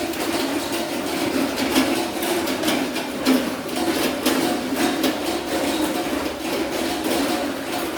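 A sow eating: steady chewing and smacking with many irregular sharp clicks and knocks.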